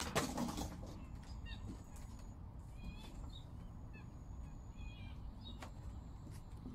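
Small birds chirping in short scattered calls over a steady low outdoor rumble, after a brief louder noise right at the start.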